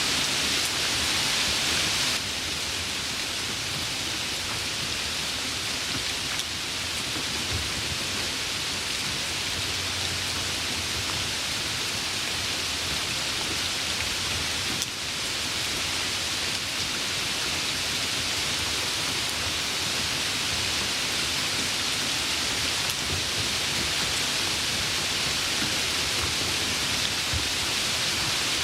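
Steady rainfall: a dense, even hiss of rain with no separate drops standing out.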